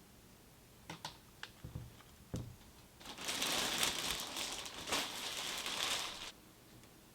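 Hands working with computer parts: a few light clicks, then about three seconds of dense crinkling rustle that stops abruptly.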